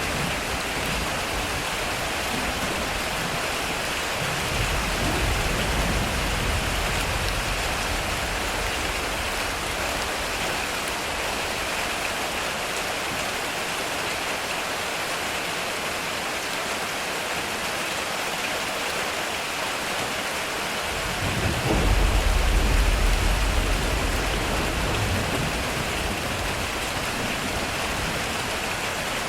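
Heavy rain drumming steadily on a metal roof, with two rolls of thunder: a softer rumble about five seconds in, and a louder one that breaks suddenly about two-thirds of the way through and rolls away over a few seconds.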